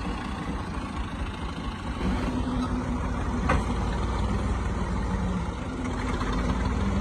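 An overloaded tractor's diesel engine running steadily, its note rising a little about two seconds in. A single sharp knock sounds about halfway through.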